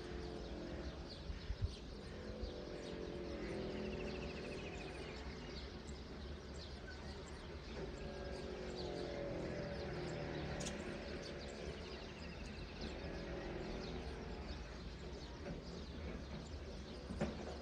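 Outdoor morning ambience: birds chirping, with a few rapid trills, over a steady low background hum, and a couple of soft clicks.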